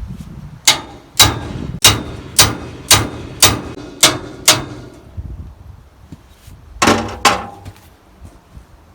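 Hammer blows on steel at the sawmill arbor while the old circle saw blade is being taken off. Eight sharp, ringing strikes come about two a second, then after a pause two more near the end.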